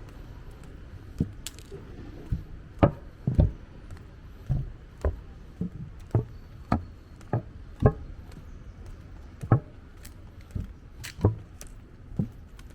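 Footsteps of a person walking, a sharp tap roughly every half second with a slightly uneven rhythm.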